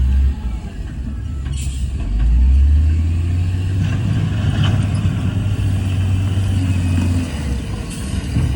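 Heavy diesel engine of earth-moving equipment running, a low steady rumble that swells about two seconds in, with a short hiss about one and a half seconds in.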